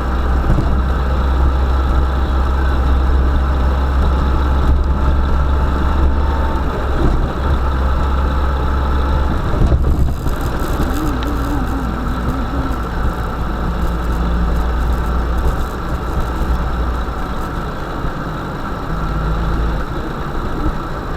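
UAZ-452 'Bukhanka' van's engine running with a steady low rumble, with a short knock about halfway through.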